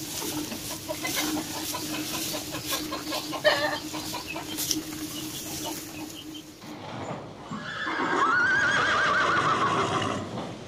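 Cattle munching dry straw, with crunching and rustling. Then a horse whinnies loudly for about two seconds near the end, its pitch quavering up and down.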